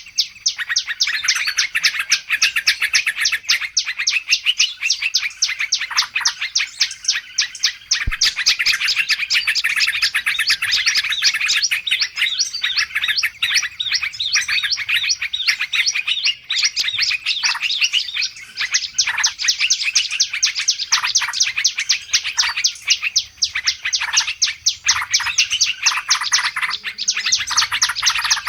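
Dense, continuous chorus of many small songbirds chirping and twittering rapidly over one another: a noisy bird-lure recording used to call wild birds in.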